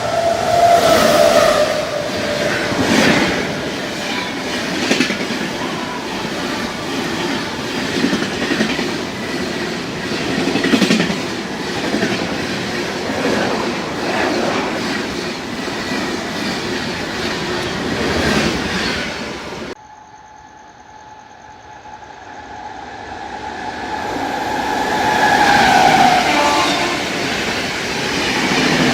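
Indian Railways express train passing at speed, its wheels clattering rhythmically over the rail joints. About two-thirds of the way in the sound cuts off suddenly, and another train is heard approaching and growing louder, with a tone that falls in pitch as it passes.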